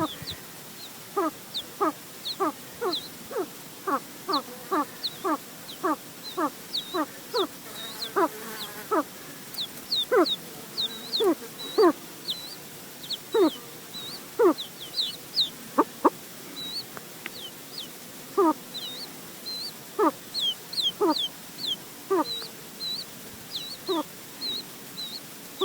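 Rock ptarmigan hen and chicks calling: short downward clucks, about one or two a second, under a steady stream of thin, high chick peeps.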